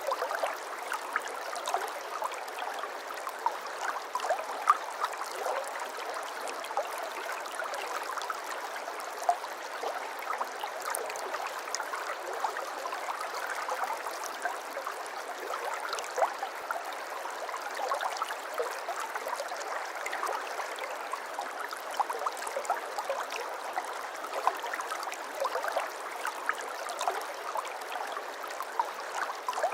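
Stream water flowing and babbling steadily, a continuous rush dotted with many small splashes and gurgles.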